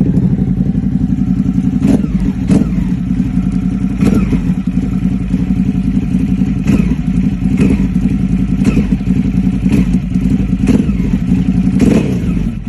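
Ducati motorcycle engine running loudly through its exhaust, with sharp cracks about once a second.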